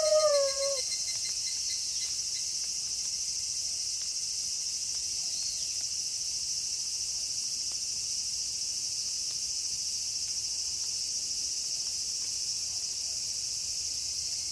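The last moment of a wolf howl, falling in pitch and ending within the first second. After that only a steady night chorus of crickets.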